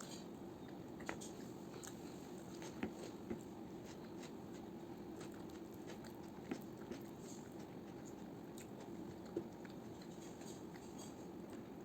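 Person eating fried rice and mutton curry: faint chewing and mouth sounds with a few scattered small clicks, over a steady low hum.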